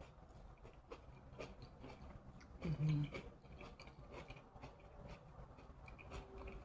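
A person chewing a mouthful of cooked greens, with soft, irregular wet mouth clicks. A brief low hum from the eater comes about three seconds in.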